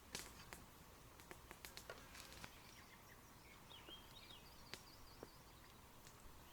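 Near silence with a few faint clicks in the first couple of seconds, then a faint small bird warbling briefly from about three and a half seconds in.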